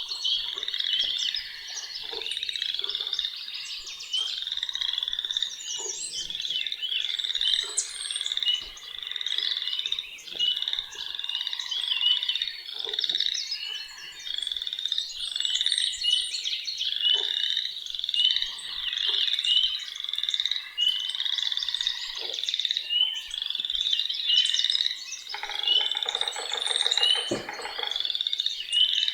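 A dense chorus of frogs: many short, high calls repeating and overlapping without a break, with a few bird chirps above them. About 25 seconds in, a lower pulsed trill joins for about three seconds.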